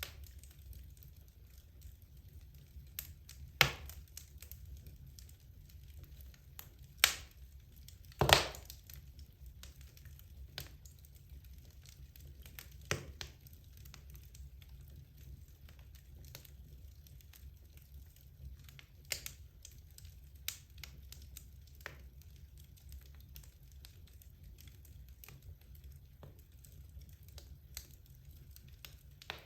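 Wood logs burning in a fireplace: a soft low rumble of flames with scattered light crackles and a few sharp pops, the loudest three coming at about 3.5, 7 and 8 seconds in.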